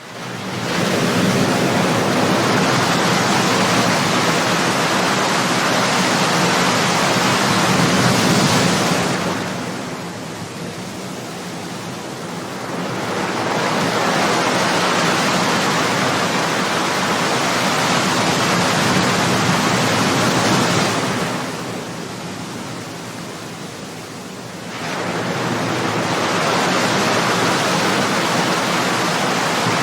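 Ocean waves breaking on a shore: a steady rush of surf that starts suddenly, eases off twice into quieter lulls and swells up again as the next waves come in.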